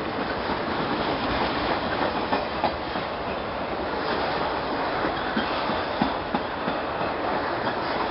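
Freight train cars rolling past: a steady rumble and rattle of wheels on rail, with irregular sharp clacks as the wheels cross rail joints.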